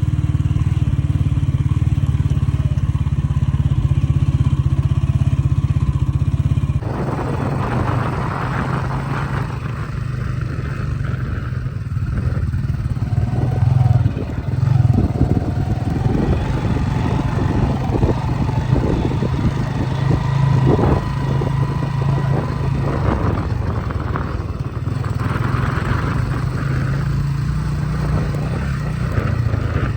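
Motorcycle engine running, with an abrupt change in its sound about seven seconds in, followed by a rougher, clattering running.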